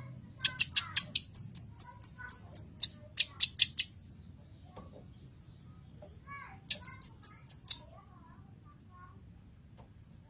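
Blue-masked leafbird (cucak kinoy) singing: two runs of rapid, high, sharp repeated notes, the first about three seconds long and the second about a second, each opened by a few softer, lower warbled notes.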